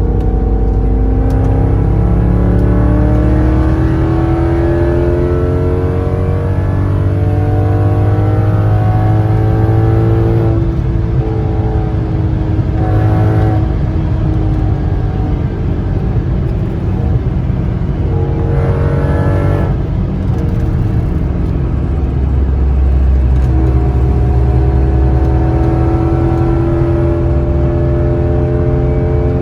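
2002 Audi S6's 4.2-litre V8 running through a catless 3-inch true dual exhaust and a Magnaflow muffler, under hard throttle. The note climbs steadily in pitch, drops suddenly at gear changes about ten and twenty seconds in, then climbs again near the end.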